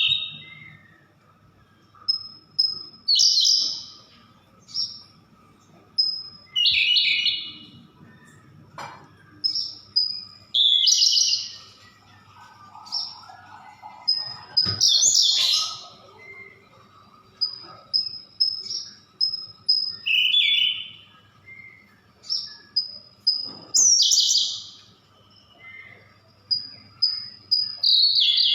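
Siberian blue robin singing: repeated phrases, each a few thin, high introductory notes followed by a louder, rapid chattering burst, coming every two to three seconds.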